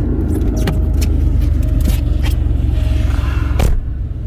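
Car engine and road rumble, steady and heavy, with scattered clicks; a sharp knock comes near the end, after which the rumble drops away.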